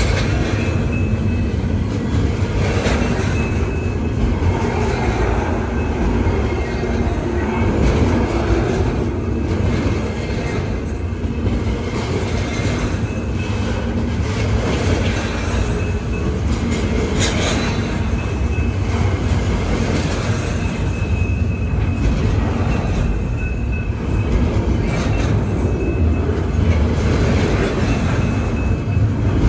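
Freight cars of a long intermodal train rolling past at speed: a steady rumble of steel wheels on rail with scattered clicks, and a faint high wheel squeal that comes and goes.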